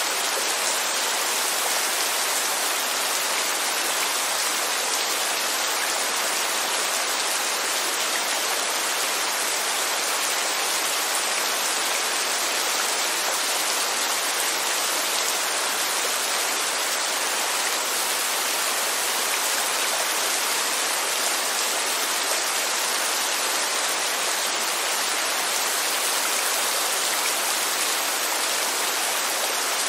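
Steady rain falling on a corrugated roof and the surrounding leaves, with runoff pouring off the roof's edge in thin streams. An even, unbroken hiss.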